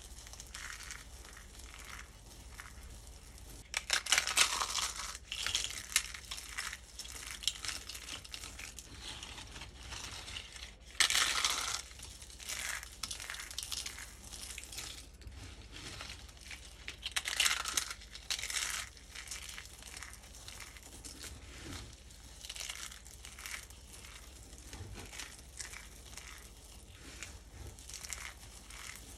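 Dry, starch-coated soap crunching and crumbling in a string of crisp crackles, with louder bursts about four, eleven and seventeen seconds in.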